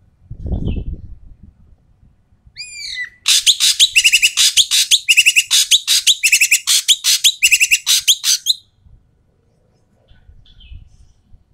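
Ekek keling bird calling loudly and harshly: a few rising notes, then a rapid, rasping chatter of many strokes lasting about five seconds. A low thump comes near the start, and faint chirps follow near the end.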